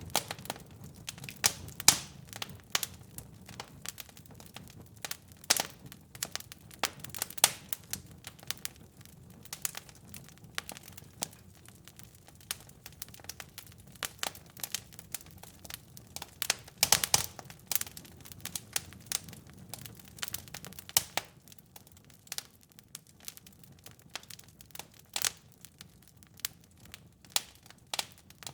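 Wood fire burning in a fireplace: irregular sharp crackles and pops over a faint low rumble of the flames, a little sparser after about twenty seconds.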